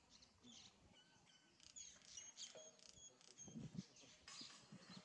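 Faint chirping of small birds: a run of short, high, clipped notes, several a second, through the middle. A soft low rustle of movement comes about three and a half seconds in.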